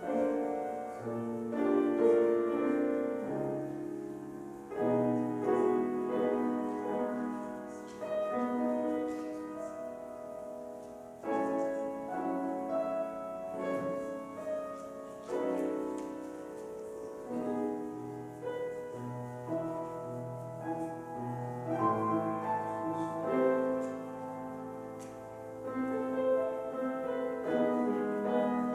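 Solo piano playing slow music with changing chords, the offertory during a church service.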